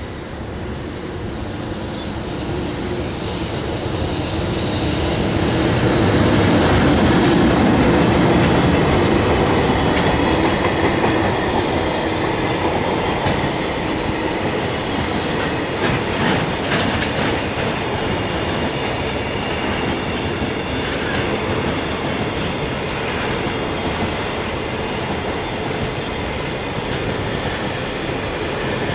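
A container freight train hauled by an EH500 electric locomotive passing. The sound builds to its loudest as the locomotive goes by a few seconds in, then the container wagons roll past with a steady rumble and clickety-clack of the wheels.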